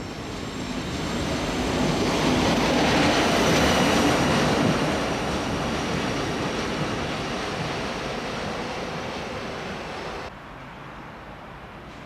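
A train moving through the station, its wheel and rail noise building to a peak about three to four seconds in, then slowly fading, before dropping off suddenly near the end.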